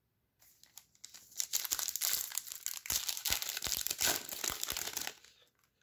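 Foil wrapper of a trading-card pack crinkling and tearing as it is handled and opened, a dense run of crackles from about a second in until near the end.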